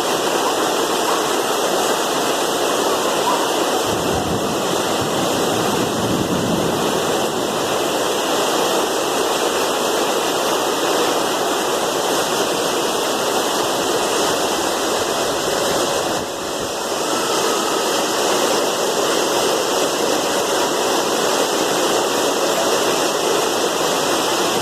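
Heavy rain mixed with hail coming down hard, a steady, dense rushing noise that eases for a moment about sixteen seconds in.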